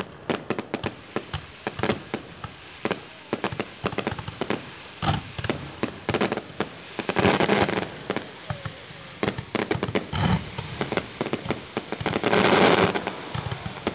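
Aerial fireworks going off in quick succession: a steady run of sharp pops and bangs, with two louder, longer stretches of noise about halfway through and near the end.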